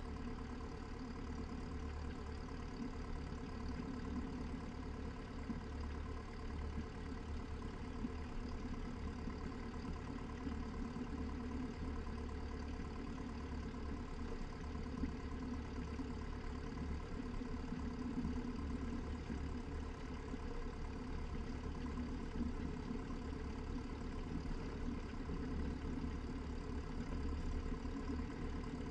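Cessna 172's piston engine running steadily at low taxi power, its mixture just leaned for taxi.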